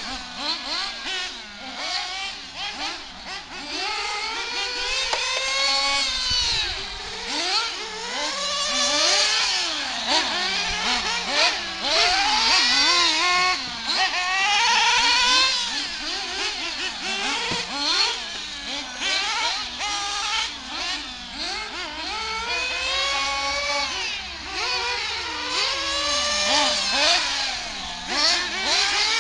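Nitro RC buggy engines revving, the high whining pitch climbing and falling again and again as the cars are driven, with more than one engine overlapping.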